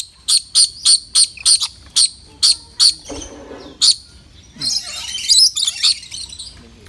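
A bird calling: a quick run of short, sharp, high calls about three a second, then a single call and a rougher burst of chattering.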